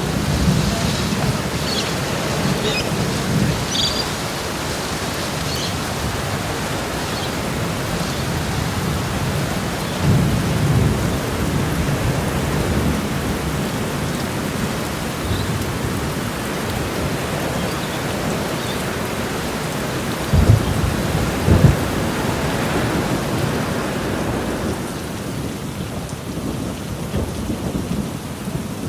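Heavy, torrential rain pouring down steadily, with a few short low thumps about ten seconds in and twice more a little after twenty seconds. The rain eases slightly near the end.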